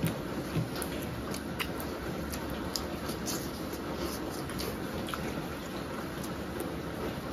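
Close-miked eating sounds: wet chewing, with irregular sharp mouth and lip smacks and small clicks, as two people eat curried chicken pieces with their fingers.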